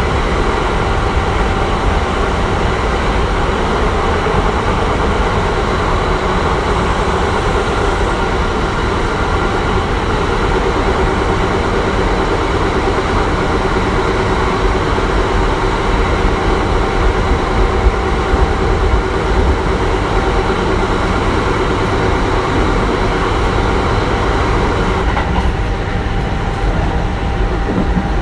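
Kintetsu 1420 series electric train with a Mitsubishi GTO-VVVF inverter running steadily at speed. Wheel and rail rumble is mixed with the steady whine of the inverter and traction motors.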